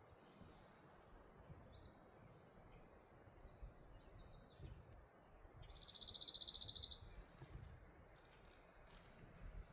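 Songbird singing in the forest: a short run of quick high notes about a second in, then a louder rapid trill of about a second a few seconds later, over faint background hiss and rumble.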